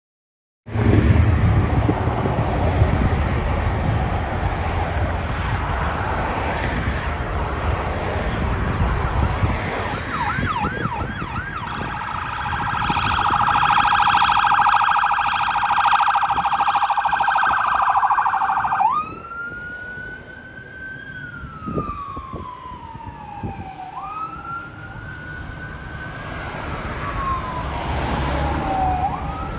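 Emergency vehicle sirens responding: a heavy low engine rumble for about the first ten seconds, then a few quick yelp sweeps, a fast pulsing high tone for several seconds, and from about two-thirds through a slow wail rising and falling in pitch.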